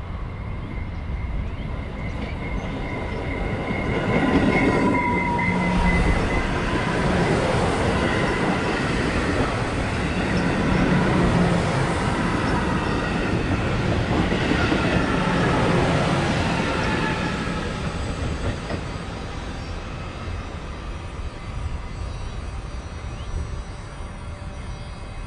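Passenger train passing close by: a steady rumble of wheels on the rails with thin high whining tones. It swells a few seconds in, stays loud for over ten seconds, then fades as the train moves off.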